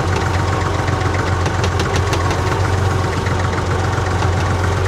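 Old farm tractor's Perkins three-cylinder diesel engine running steadily at low speed.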